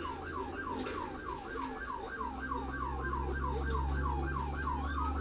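Police car siren on its fast yelp setting, sweeping up and down about four times a second, over the low steady rumble of the pursuing cruiser.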